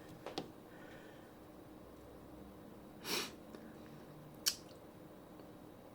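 Quiet room tone with a few faint, sharp clicks, one about a third of a second in and a louder one about four and a half seconds in. A short breath through the nose comes about three seconds in.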